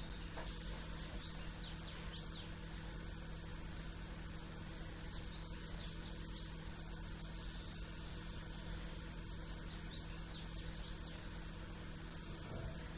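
Small songbirds chirping in short quick calls, in bursts about two seconds in and again through the middle, over a steady low background hum.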